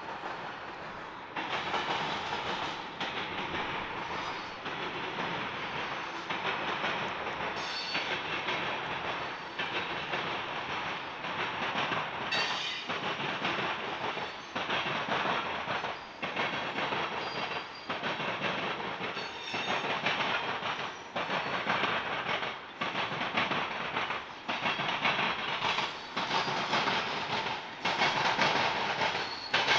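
Freight cars of a long train rolling across a railroad diamond crossing, the wheels pounding over the crossing in a clatter that repeats about every second and a half as each car goes by. A few brief high wheel squeals ride on top.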